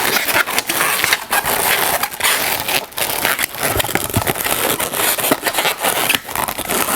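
Inflated latex twisting balloons rubbing and squeaking against each other as one is twisted and wrapped into a pinch twist: a continuous run of rubbery scrapes and crackles.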